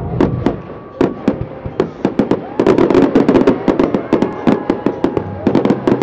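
Fireworks display: rapid crackling and popping of bursting fireworks, many reports close together, densest about halfway through and again near the end.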